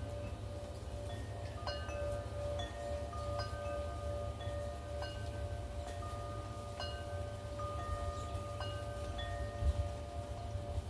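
Wind chimes ringing in gusty wind, struck irregularly so that several tones overlap and ring on. Under them runs a steady low rumble of wind, which swells briefly near the end.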